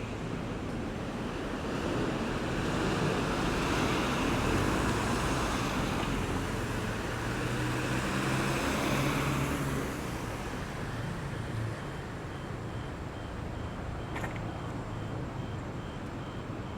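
Road traffic: engines and tyre noise of passing cars and heavier vehicles, swelling for several seconds and then easing off. In the second half a faint high beep repeats about twice a second, and there is a single short click.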